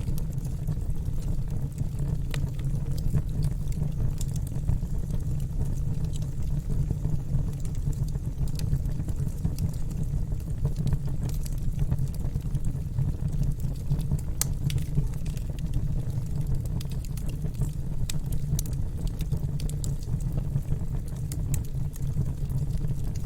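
Wood fire burning in a fireplace: a steady low rumble of flames with frequent scattered sharp crackles and pops.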